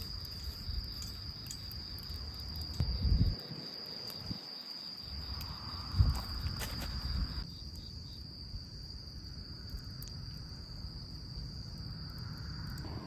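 Crickets singing in a steady, unbroken high trill, with a low rumble underneath and a couple of louder bumps about three and six seconds in.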